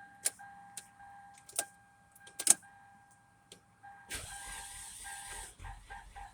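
A steady high whine from the engine bay of a 2004 Toyota Corolla: the vacuum-like noise that turned out to be a bad alternator. A few sharp clicks come in the first couple of seconds, a burst of hiss about four seconds in, and after it the whine turns choppy.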